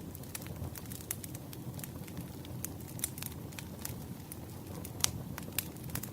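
Wood campfire crackling: a steady low rumble of burning with frequent sharp pops and snaps, two louder pops about five seconds in.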